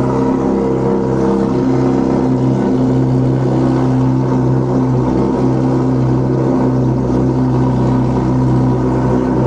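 Honda CBR600RR inline-four engine through a TOCE aftermarket exhaust, running at steady revs with an even, unchanging exhaust note.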